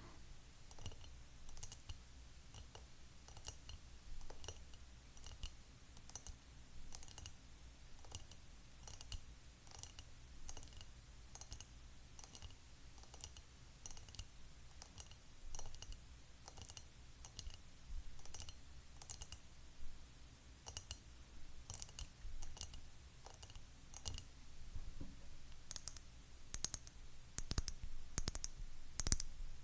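Fingernails tapping on hard objects: quick, uneven clicks, several a second, with louder and denser strikes near the end.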